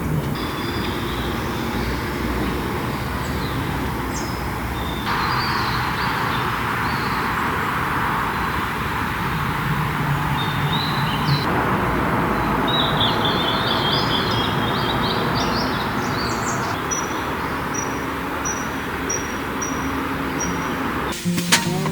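Wild birds chirping and calling over a steady rushing background noise that grows louder a few seconds in. Near the end one bird gives a run of about eight short, evenly spaced high chirps.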